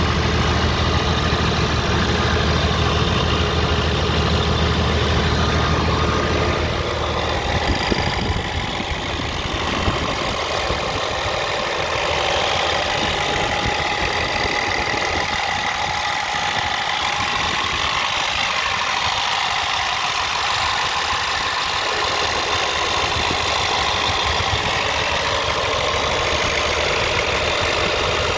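Scania R450 truck's 13-litre inline-six diesel engine idling steadily. About seven to ten seconds in its deep low hum drops away and it goes on as a thinner, steady idle.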